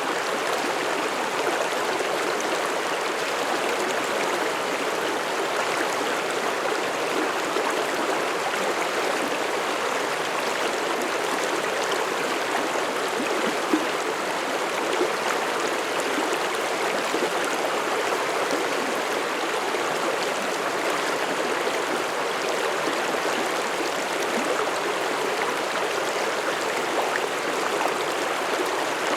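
Mountain stream flowing and splashing over rocks: a steady rush of running water that does not change.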